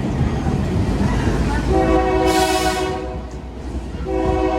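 Train horn sounding a multi-note chord in two blasts: one of just over a second, then a second blast starting near the end. Under it runs the steady rumble of the moving train.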